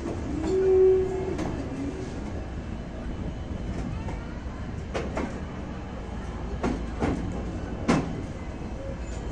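Passenger train running on the track: a steady low rumble, a brief squeal about a second in, then five irregularly spaced sharp clacks of the wheels over rail joints between about five and eight seconds in.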